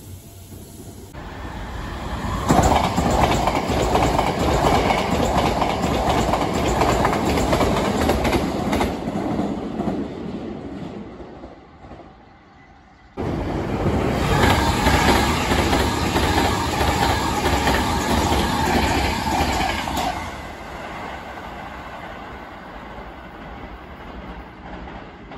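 Two Hankyu 1000 series limited express trains passing through a station at speed, one after the other, with the clickety-clack of wheels over rail joints. The first builds up about two seconds in and fades away. The second starts loud after an abrupt cut and drops off about seven seconds later, leaving a quieter rumble.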